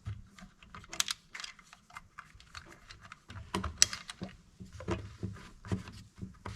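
Irregular light clicks and taps of small chainsaw parts being handled and fitted by hand, with a few sharper clicks.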